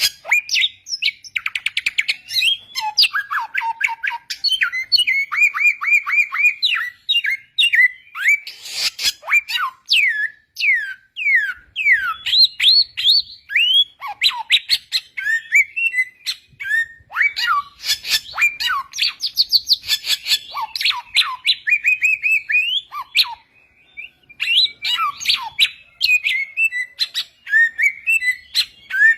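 Samyong, an Indonesian endemic songbird, singing a loud, continuous, varied song: rapid chirps, quick downward-slurred whistles and fast trills with hardly a pause.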